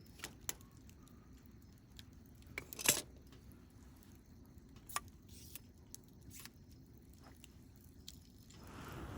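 Wood campfire crackling quietly, with scattered sharp pops, the loudest a little before the midpoint. Near the end a rushing noise swells.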